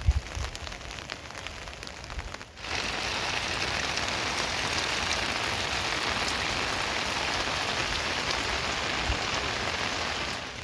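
Rain falling with scattered drop ticks and a few low thumps. About two and a half seconds in, it changes abruptly to heavy, steady rain with an even hiss.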